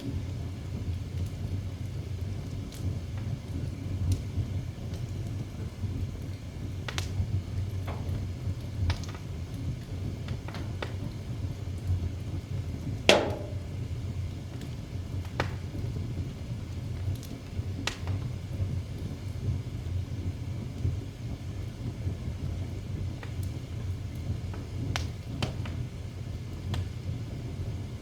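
Wood fire burning in a fireplace: a steady low rumble with scattered sharp crackles and pops, the loudest one about halfway through.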